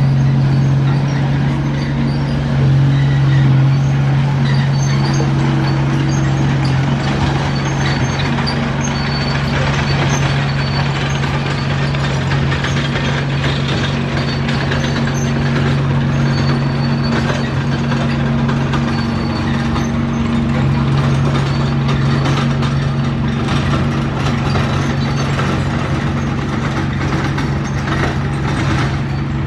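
Heavy diesel engine of a construction machine running steadily under work, its low drone shifting pitch slightly a few times.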